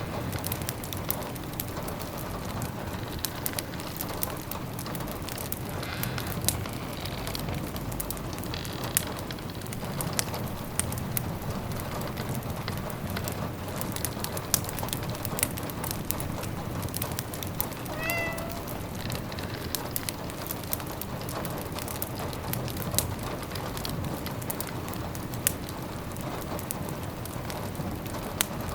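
A wood fire crackling with sharp snaps over steady rain pattering on windows. A cat meows once, briefly, past the middle.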